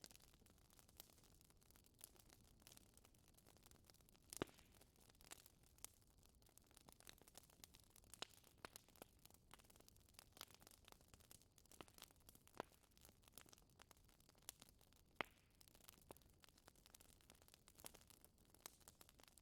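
Quiet wood fire crackling in a fireplace: irregular sharp pops and snaps over a soft hiss, with two louder pops about four and fifteen seconds in.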